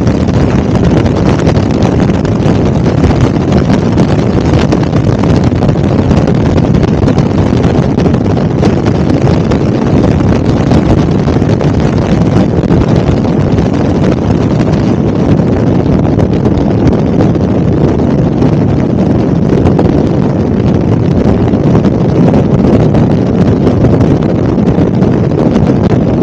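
Helicopter in flight: a loud, steady rumble with wind noise on the microphone.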